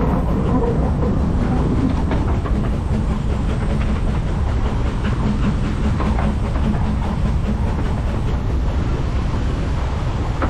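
Narrow-gauge steam train running along the line: a steady rumble of wheels on track, with faint clicks scattered throughout.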